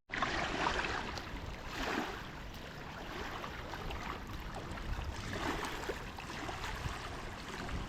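Steady rushing outdoor ambience without speech, an even hiss of moving air or water.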